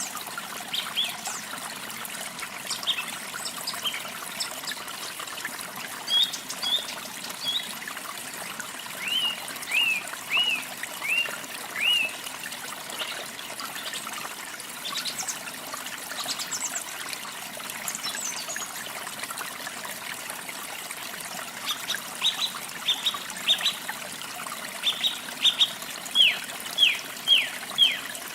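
Small birds chirping over a steady trickle of running water. The chirps come in short runs of quick down-slurred notes, about two a second, with the loudest run near the end.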